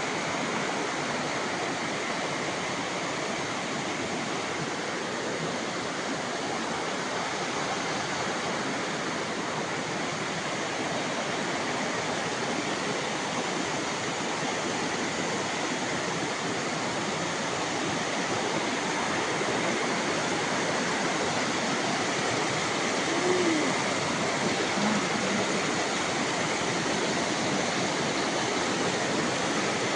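Steady rush of fast-flowing water, an even, unbroken noise throughout, with a faint brief sound about two-thirds of the way through.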